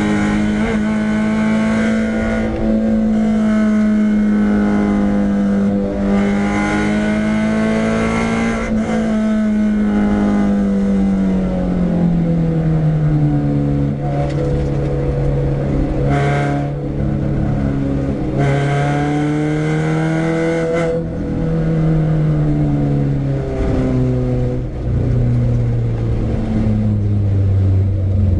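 Renault Clio 172's 2.0-litre four-cylinder engine running hard on track, its pitch rising and falling with throttle and gear changes and sinking lower through the second half.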